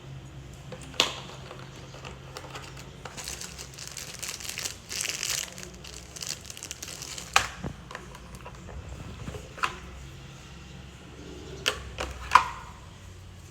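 Plastic packaging crinkling and rustling as an art kit is unpacked, with a handful of sharp clicks and taps from the supplies and case; the loudest click comes near the end.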